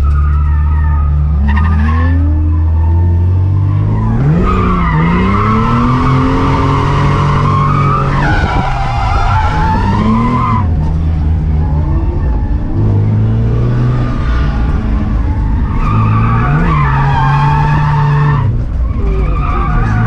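Barra inline-six engine of an R31 Skyline drift car revving up and falling back, with tyre squeal as the car slides, in two long stretches: about four seconds in and again about sixteen seconds in.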